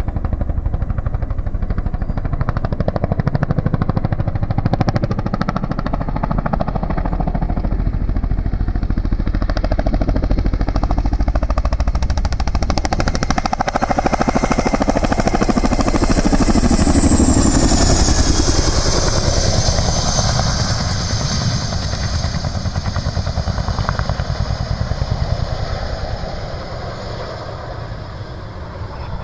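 CH-47D Chinook tandem-rotor helicopter running, its rotors beating rapidly and steadily. A high turbine whine drops in pitch about two-thirds of the way through as the sound peaks, then it fades over the last few seconds.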